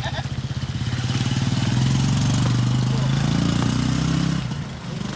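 Small motorcycle engine running at low speed with an even putting beat, the revs rising a little and then easing off about four and a half seconds in.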